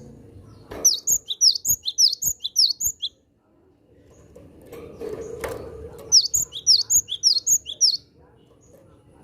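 Cinereous tit (gelatik batu) calling in two bursts of rapid, sharp, falling chirps, each lasting about two seconds; the second burst starts about six seconds in. A soft knock falls between the bursts.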